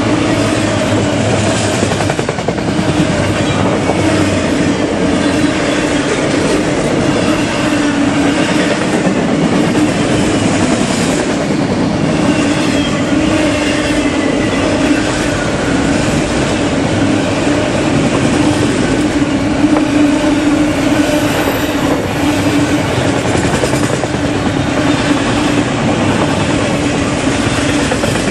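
Freight train cars rolling steadily past: continuous wheel-on-rail noise with a steady hum running through it.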